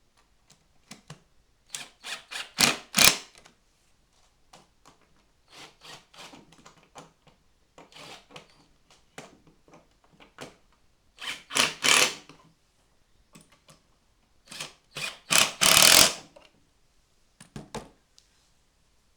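Handling noises: scattered clicks and knocks, with three louder scraping or rustling bursts about 3, 12 and 16 seconds in.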